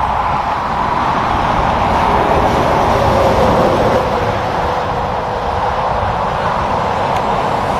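Road traffic with trucks driving past: a steady, loud wash of tyre and engine noise whose pitch sags slightly midway and rises again.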